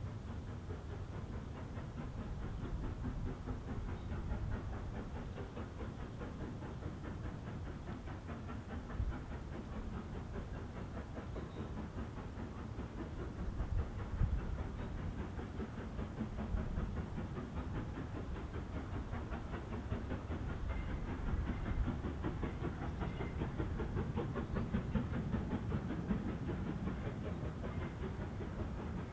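A steam-hauled train running along the line, its wheels and coaches on the rails and the locomotive steaming, at a steady level throughout.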